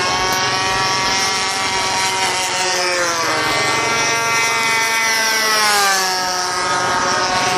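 DLE 20cc two-stroke gas engine of an RC warbird model airplane running in flight. Its pitch falls as it passes by, once about three seconds in and again around six seconds, where it is loudest.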